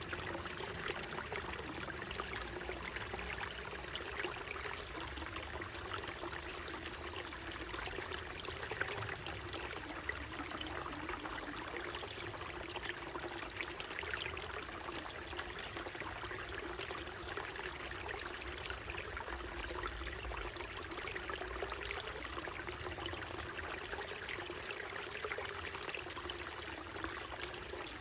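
Small mountain stream flowing: a steady rush of running water with fine trickling splashes throughout.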